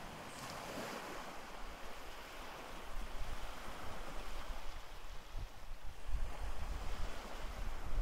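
Sea waves washing on a shore, with wind gusting against the microphone, the rumble growing stronger in the second half.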